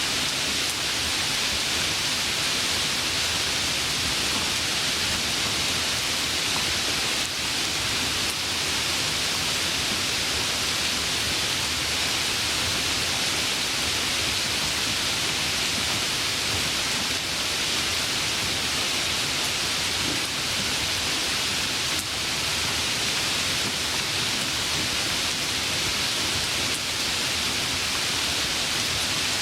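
Steady, even rain falling, a continuous hiss with faint scattered drop ticks.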